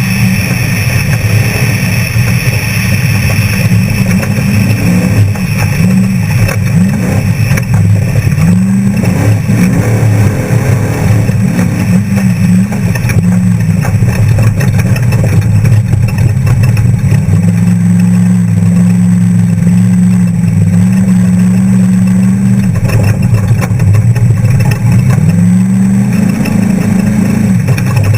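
Off-road trophy truck engine at speed, revving up and dropping back again and again as it shifts and lifts. It holds steady at high revs for about five seconds past the middle, then revs up once more near the end.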